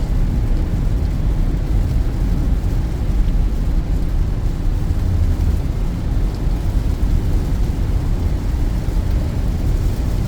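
Steady low rumble inside the cabin of a Peugeot 2008 climbing a steep highway in heavy rain: the engine under load, tyres on the wet road and rain on the car blend into one even noise.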